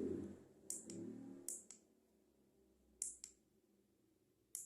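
Sharp plastic clicks from handling a small Bluetooth speaker, coming in quick pairs four times, like its buttons or casing being pressed and released.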